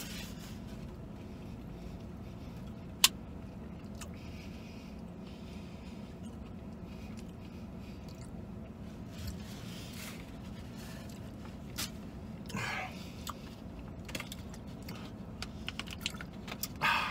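A man chewing a mouthful of chicken sandwich over a steady low hum, with one sharp click about three seconds in and scattered small clicks and paper rustles; near the end a plastic water bottle crinkles as he drinks.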